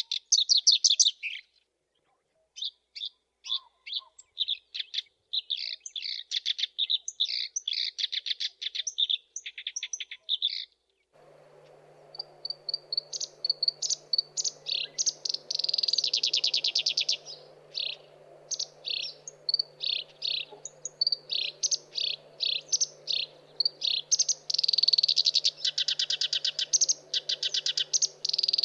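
Black-browed reed warbler singing: phrases of rapid, short, high repeated notes, with a brief pause about two seconds in. About eleven seconds in, a steady low hum and faint hiss come in under the song.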